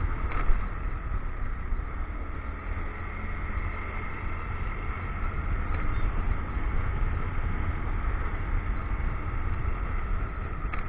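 Motorcycle running steadily while being ridden, with a heavy low wind rumble on an action camera's microphone.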